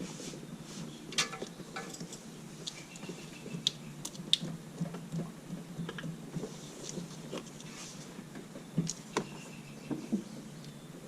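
Scattered light clicks and knocks, a few seconds apart, over a faint steady low hum.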